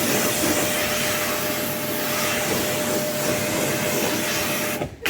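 Pressure washer spraying: a steady hiss of water with a thin, even whine through it, cutting off sharply near the end as the spray stops.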